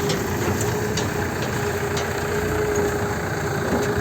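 Mahindra tractor's diesel engine running steadily, a dense rumble with a steady whine above it and a few faint clicks.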